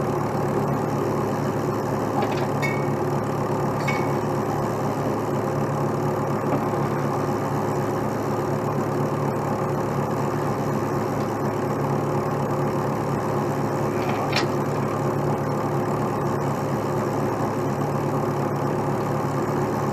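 Heavy truck diesel engine running steadily at idle, with a few light clicks, the sharpest about fourteen seconds in.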